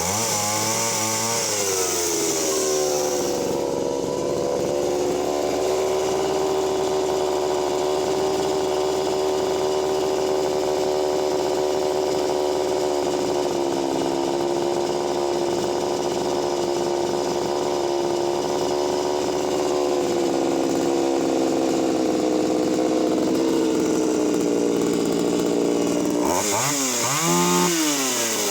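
Two-stroke chainsaw revving up and down, then held at full throttle through a long cut in wood, the engine pitch sagging slightly under load at times; near the end it comes out of the cut and revs up and down freely.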